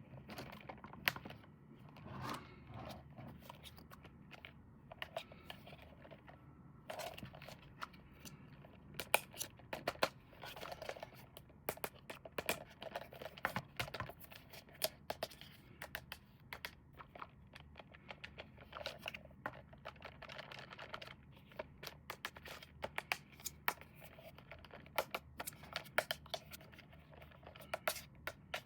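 Hands handling and opening toy packaging: irregular sharp clicks and taps with tearing and crinkling of cardboard and plastic.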